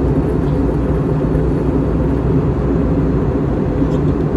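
Steady cabin drone of an Airbus A321 airliner in flight: engine and airflow noise heard from inside the passenger cabin, even and low-pitched.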